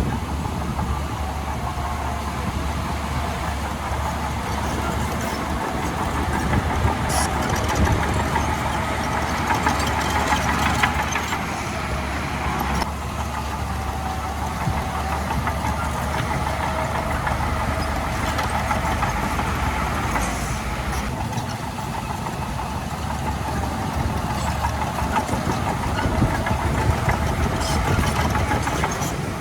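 Diesel engine of heavy earthmoving machinery running steadily, with a few short knocks along the way.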